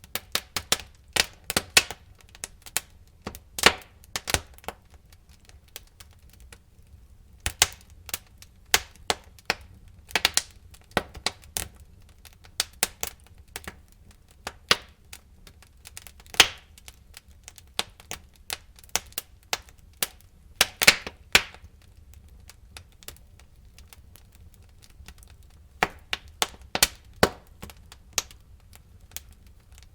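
Burning wood crackling and popping in a fireplace: irregular sharp cracks, sometimes in quick clusters, with a few quieter stretches, over a faint low rumble.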